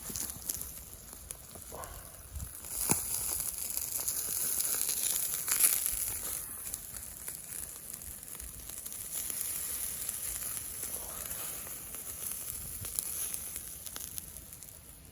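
Food sizzling over a campfire: a steady hiss that swells for a few seconds and then eases, with small crackles and clicks.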